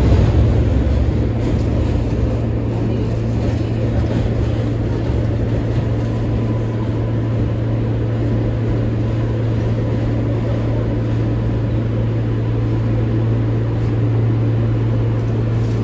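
R143 subway train running between stations, heard from inside the car: a steady rumble of wheels on rail with a constant low hum.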